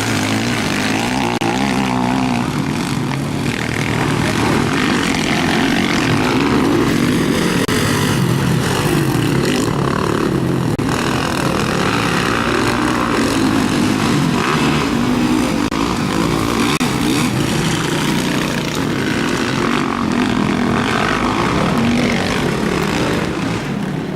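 Motocross motorcycle engines running on the track, revving up and down so their pitch keeps wavering.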